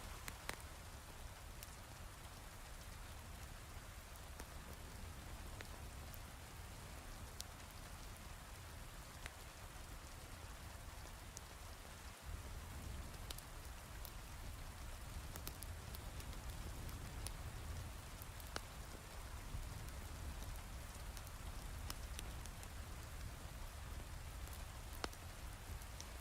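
Steady heavy rain, with scattered sharp crackles and ticks at irregular moments throughout and a low rumble underneath.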